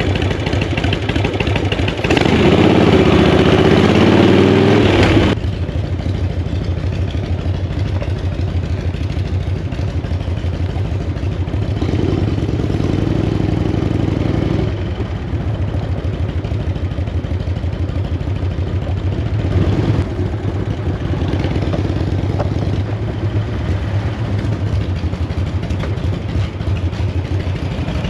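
Chopper motorcycle engine running under way, a steady pulsing note with two louder stretches of throttle, about two seconds in and again around twelve seconds. The bike is running on its reserve fuel and runs smoothly, with no popping or banging.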